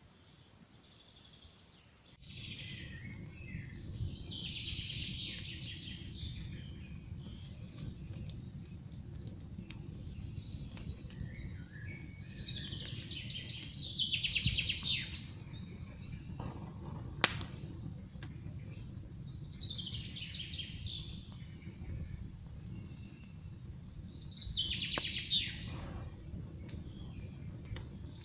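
Campfire crackling with scattered sharp pops over a steady low rumble, which comes up about two seconds in. Over it a songbird sings a short descending phrase four times.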